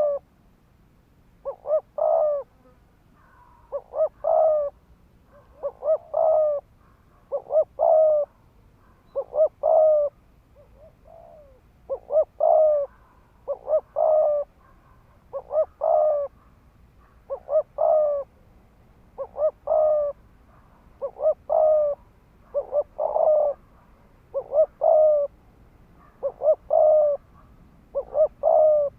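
Spotted dove cooing rapidly: short phrases of a few quick coos, about one phrase every two seconds. This is the urgent 'thúc gù' call that a decoy male gives to provoke wild rival doves.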